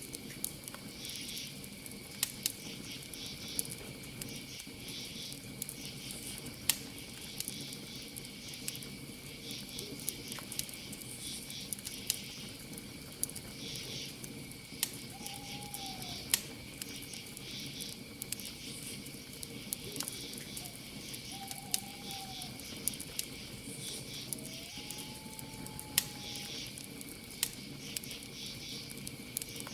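Campfire crackling with frequent sharp pops over a low rustle, crickets and other night insects chirping steadily, and an owl giving three short hoots in the middle stretch.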